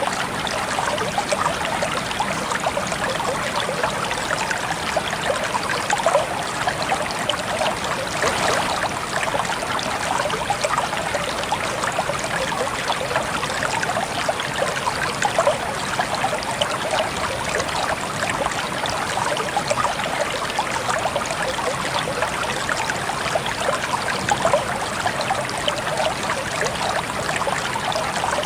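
Steady trickling water, a continuous splashing, burbling flow with many small droplet sounds.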